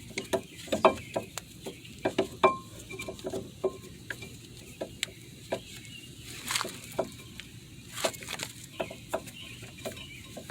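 Irregular metallic clicks and scrapes, several a second, from a screw-type brake caliper piston compressor being turned to push the caliper piston back into its bore.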